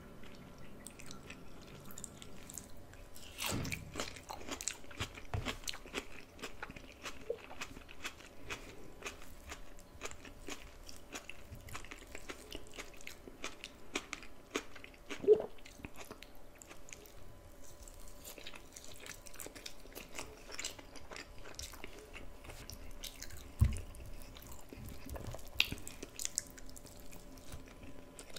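A person chewing and biting food close to the microphone, with many small crunches and clicks. A sharper, louder sound comes about halfway through, and a low thump a few seconds before the end.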